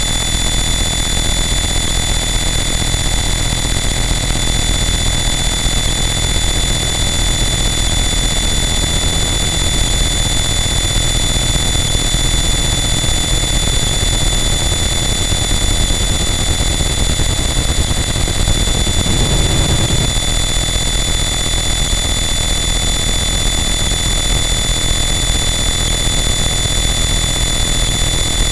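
Harsh noise wall: a loud, unchanging wall of distorted static with a heavy low rumble and a few steady high-pitched tones running through it. A brief swell in the low end comes about two-thirds of the way through.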